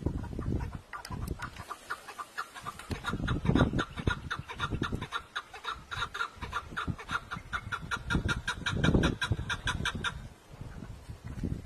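Chickens clucking in a rapid run of short, evenly repeated calls that stops about ten seconds in, with a few loud low thumps in between.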